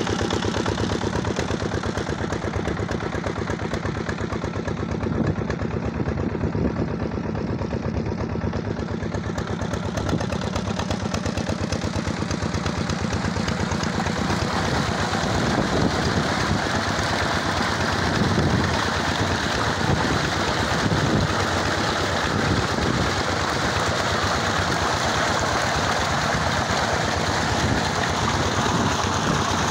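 Diesel engine running steadily, its firing strokes coming as a rapid, even pulse.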